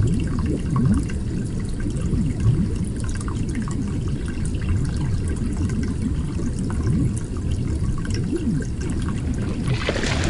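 Water bubbling and trickling steadily, sounding muffled, with most of its sound held low.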